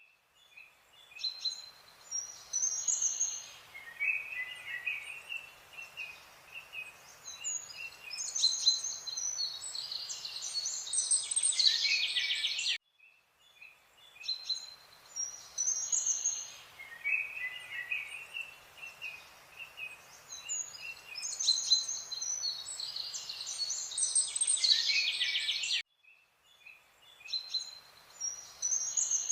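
Birds chirping and trilling over a faint steady hiss: a looped nature-ambience recording that restarts about every 13 seconds, with a brief silent cut at each restart.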